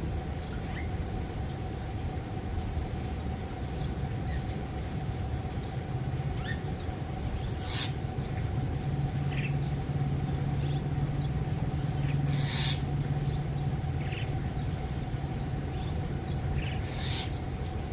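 Birds giving short, scattered calls, a dozen or so brief notes spread out, over a steady low hum.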